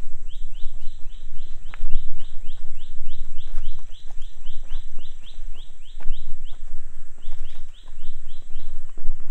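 A bird repeating short rising chirps, about four a second, with a short break about two-thirds of the way through, over a steady high insect drone. Underneath are a strong low rumble on the microphone and scattered light clicks.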